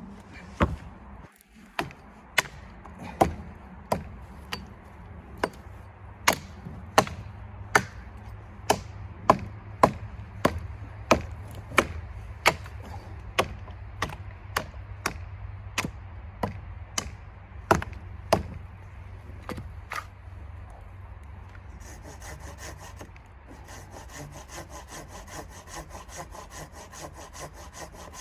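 Wood being worked by hand: a long series of sharp knocks on wood, about one and a half a second. About two-thirds of the way through these give way to a hand saw cutting wood with fast, even back-and-forth strokes.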